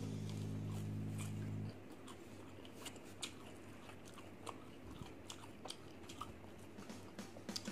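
Background music with a steady low beat stops abruptly about two seconds in. Close-up mouth sounds follow: a person chewing a mouthful of fried chicken, with scattered small crunches and wet clicks.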